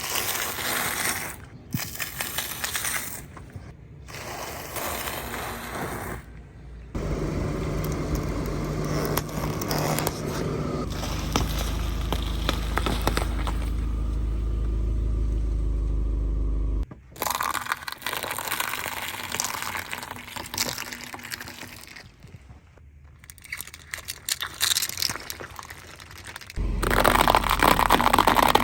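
A car running over and crushing objects: crackling, crunching and scraping, broken into short clips by abrupt cuts. A steady low engine hum runs for about ten seconds in the middle.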